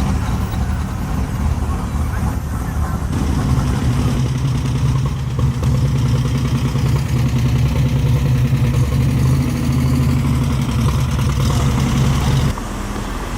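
A car engine running at a steady idle, growing louder about three seconds in and dropping away abruptly near the end.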